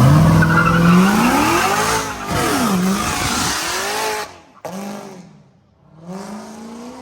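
Car engine revving hard with tyres squealing, the pitch rising and falling several times. About four seconds in it drops off, then comes a short rev and another rising one near the end.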